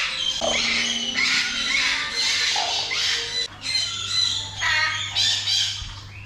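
Parrots squawking: a string of harsh calls, one after another and overlapping, from several birds at once.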